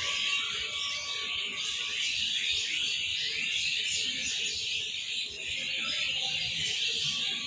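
Many birds chirping and chattering at once in a dense, continuous chorus.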